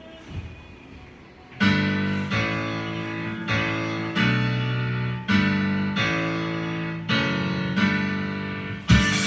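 Piano-sounding keyboard playing the song's intro as a run of held chords, each struck and left to ring before the next. Just before the end a full band comes in with guitar and drums.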